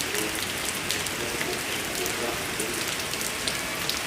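Steady rain falling, with many separate drops ticking sharply over the even hiss of the downpour.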